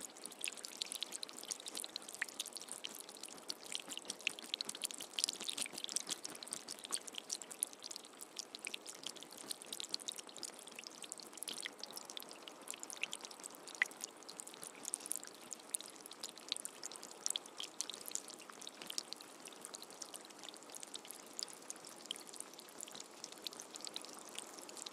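Steady rain falling, an even hiss dotted with many sharp drop impacts, with no thunder.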